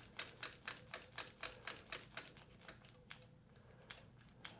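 A rapid, even series of light clicks or taps, about four a second, that slows and fades to scattered faint clicks after about two and a half seconds.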